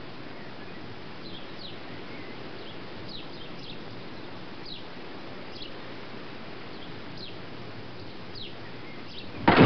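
Quiet outdoor ambience: a steady soft hiss with a bird giving scattered short, high chirps that fall in pitch. Just before the end a sudden loud burst of sound cuts in.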